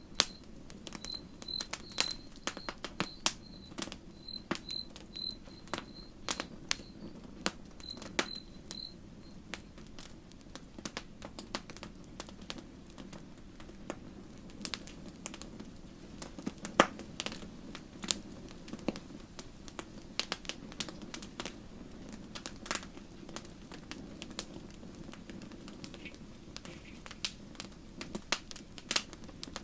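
Wood campfire burning with irregular sharp crackles and pops over a steady low rush of flame. A high, evenly repeated chirping call, about two or three a second, sounds for the first nine seconds or so.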